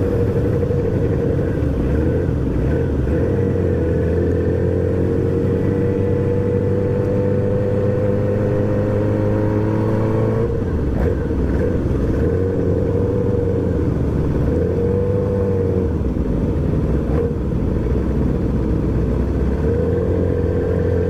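R6 sport motorcycle riding along, its engine note climbing slowly as it gathers speed, then dropping about ten seconds in, typical of a gear change. A heavy low rumble of wind noise runs underneath.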